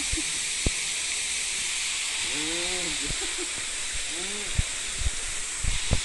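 Steady high hiss of outdoor ambience beside a spring-fed pool, with a voice sounding briefly twice in the middle and footsteps on the stone path near the end.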